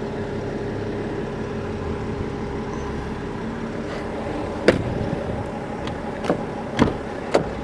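BMW X5 3.0d turbodiesel idling with a steady hum. A few sharp clicks or knocks come in the second half.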